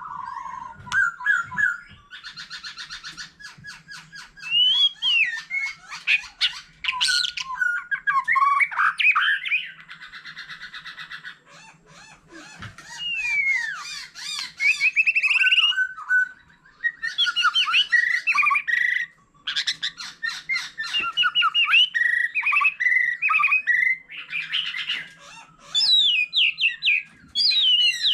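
White-rumped shama singing a long, varied song that mixes clear whistled glides, rapid rattling trills and buzzy phrases, with only brief pauses between phrases.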